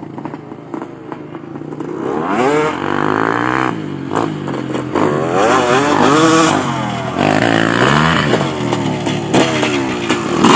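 Dirt bike engine revving hard, its pitch climbing and dropping several times as it accelerates and backs off, louder from about two seconds in.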